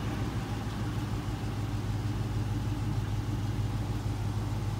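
Mopar car engine idling steadily, with a deep, even low note.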